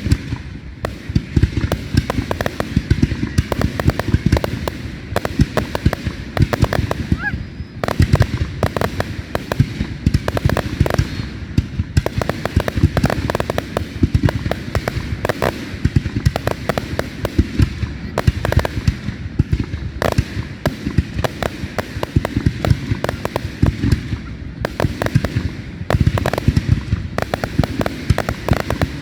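Fireworks going off without a break: a dense, rapid run of bangs and crackles, many each second.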